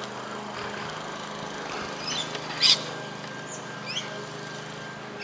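Birds calling in short chirps about two seconds in, the loudest near the middle, then two quick rising whistles about four seconds in, over a steady low hum.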